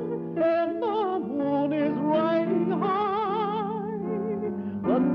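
Old light-classical love song sung in an operatic style with a wide vibrato, over a steady instrumental accompaniment.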